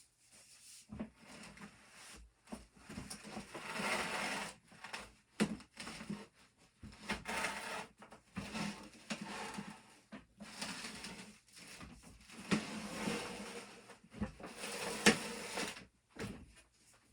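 Irregular work-handling noises in a small room: bursts of scraping and rustling broken by scattered knocks, with one sharp knock about fifteen seconds in.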